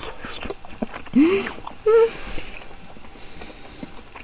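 Two people chewing grilled Korean beef, with small wet mouth clicks. There are two short closed-mouth "mmm" hums of enjoyment, one about a second in and a wavering one about two seconds in.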